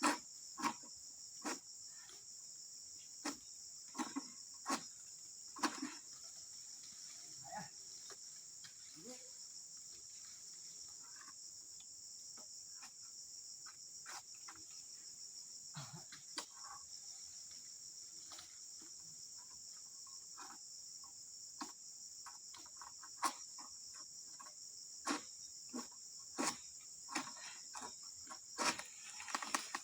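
A steady, high-pitched chorus of insects, such as crickets or cicadas. Over it come scattered short clicks, knocks and rustles, which are the loudest sounds. They cluster in the first few seconds and again in the last several.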